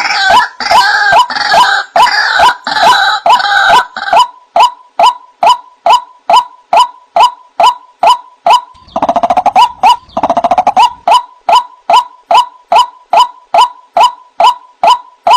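White-breasted waterhen (ruak-ruak) calling: a loud note repeated about two to three times a second, with harsher, rougher stretches of calling at the start and again about two-thirds of the way through. It is a recording used as a lure call to attract the bird.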